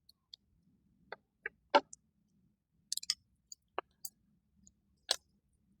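Scattered short clicks and crackles, about a dozen spread unevenly over several seconds, from handling and unwinding dry, brittle honeysuckle vine stems.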